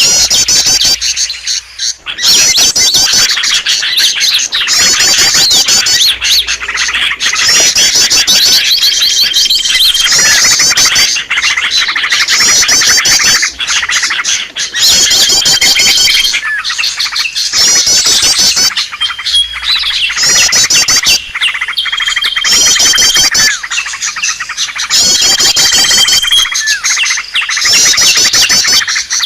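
Bird-lure recording of small songbirds: loud, fast high chirping trills repeating in short bouts every couple of seconds, with a brief steady whistled note between some bouts, like a looped lure call.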